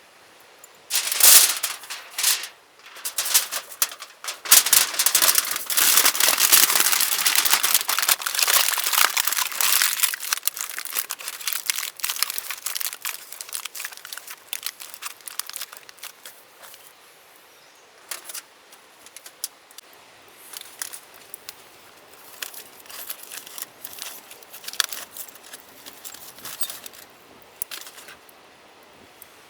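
Close, loud crinkling and crumpling of a wrapper being handled, dense for about the first fifteen seconds, then only a few scattered crinkles.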